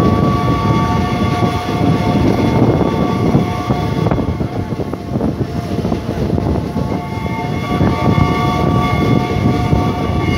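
Train carriage running at speed, its wheels and bogies rumbling and clattering on the rails with wind noise. A train's whistle sounds a long multi-note chord over it, fading about two seconds in and coming back for the last few seconds.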